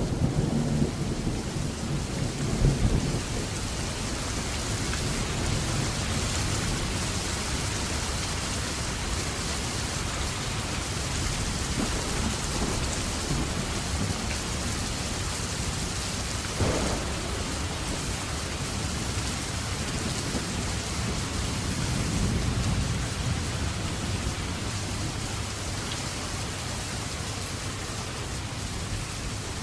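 Steady heavy rain with thunder rumbling low in the first few seconds, fading into an even rain hiss. There is a single short sharp knock about seventeen seconds in.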